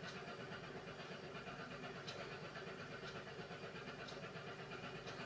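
Beko WMY81283LMB2 washing machine running its hand wash cycle: a steady motor hum, with a light tick about once a second.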